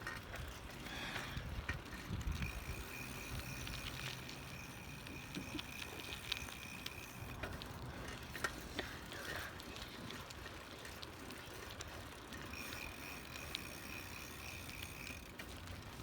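Bicycle riding noise: rumble of tyres on pavement and wind on the microphone, with scattered small clicks and rattles from the bike. A thin, steady high tone comes in twice, for about five seconds and then about three.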